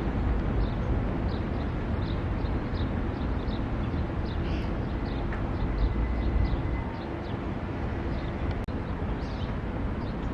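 Passenger train rumbling past, the low rumble easing about seven seconds in, with a bird chirping over it about twice a second.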